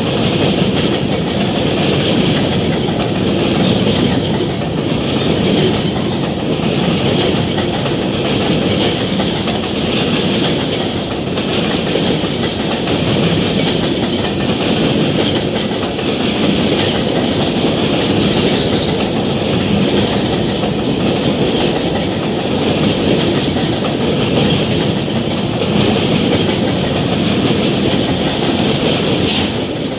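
Freight train of covered hopper cars rolling past at a steady speed, its steel wheels rumbling and clattering over the rails.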